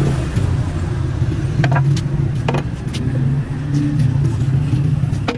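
A motor vehicle's engine running steadily, with a few short, sharp clinks around the middle.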